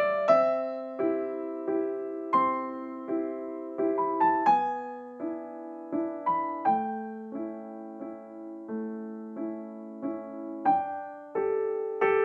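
Background music: a gentle piano melody of single struck notes that ring and fade, with occasional quicker runs.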